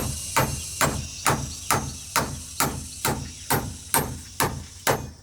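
A hand tool striking in a steady, even rhythm of about two blows a second.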